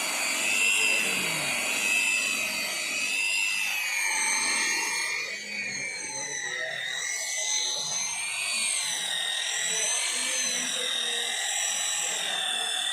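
Electric car polishing machine running, a high whine whose pitch wavers up and down.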